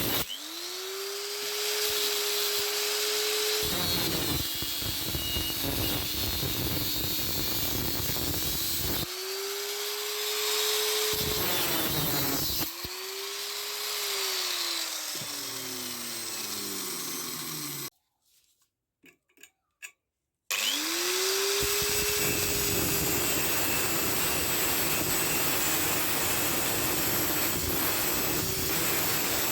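Handheld power tool started several times: each start is a rising whine that settles to a steady pitch, followed by loud rasping noise as it works. It winds down with a falling whine, stops briefly, and starts again.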